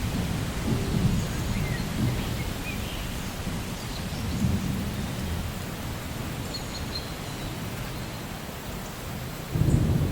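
Steady rain with thunder rumbling low and rolling. A sudden louder rumble comes near the end, and faint bird chirps come through above the rain.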